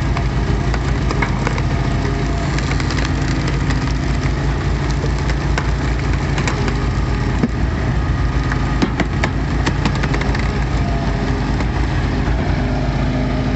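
Twin-cylinder 23 hp Briggs & Stratton Vanguard engine on an Easton Made 2228 gas log splitter running steadily, driving the hydraulics. Scattered sharp cracks sound over it as a knotty round is split.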